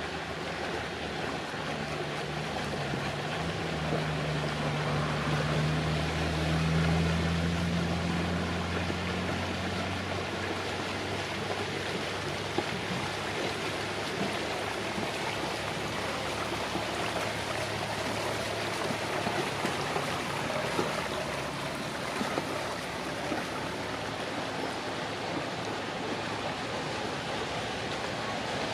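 A boat's engine hums low as it passes close, its note rising slightly and loudest about seven seconds in, then fading out around ten seconds in. Steady water and wind noise runs underneath.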